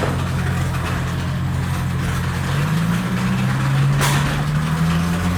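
Small electric motors of 1 lb antweight combat robots running with a steady low whine that shifts upward in pitch about three seconds in, and a sharp hit or scrape about four seconds in.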